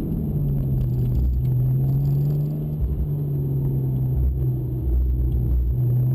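Porsche Cayman GTS 4.0-litre naturally aspirated flat-six engine running at steady, moderate revs with a low drone, its pitch holding nearly level.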